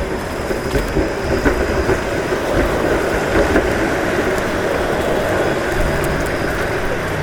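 Steady street noise of traffic passing on a snowy road, with a vehicle's low engine hum coming in about six seconds in.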